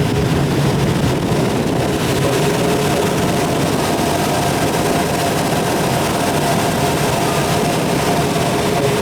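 Steady rushing airflow over the canopy of a Schleicher ASK-21 glider in flight, with a thin steady whistle over it.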